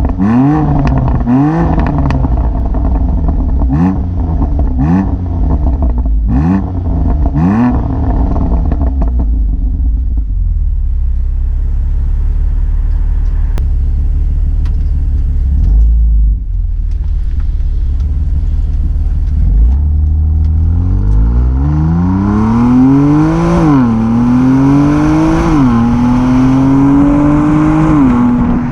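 BMW M2 Competition's twin-turbo inline-six on its stock exhaust with particulate filter, blipped again and again, about once a second, with crackles between the blips. It then settles to a low steady rumble, and near the end accelerates hard, the note climbing and dropping back at two upshifts.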